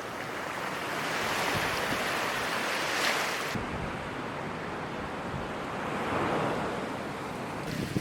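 Ocean surf washing onto the shore, a steady rush that swells twice, once around two to three seconds in and again near six seconds.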